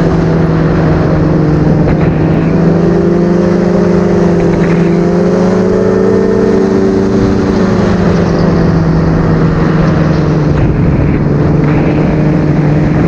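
Paratrike engine and pusher propeller droning steadily in flight, heard up close from the trike's seat, with the engine note rising slightly about halfway through and then settling back.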